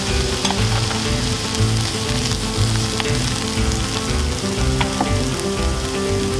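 Diced onions and red bell pepper sizzling as they fry in butter in a frying pan, with a few small pops of spattering fat.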